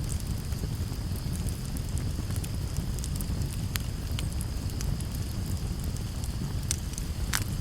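Campfire burning with a steady low rumble and scattered sharp crackles and pops, the loudest pop near the end.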